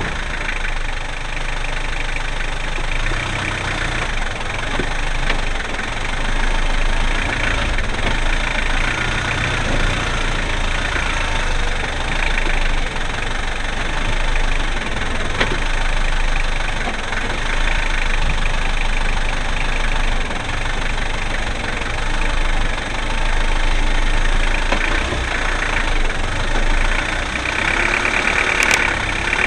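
Land Rover engine running steadily, with an occasional knock.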